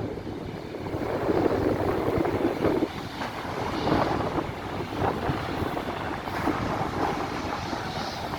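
Rough rumbling vehicle noise that swells and eases every second or so, with no clear engine tone.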